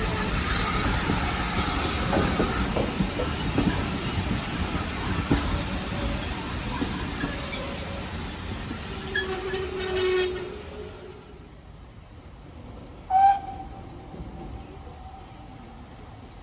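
Heritage railway train running on the track, with rumble and clatter and thin high wheel squeal. About two-thirds of the way in it cuts to a much quieter scene with birds chirping, then one short loud sound that hangs on as a fading tone.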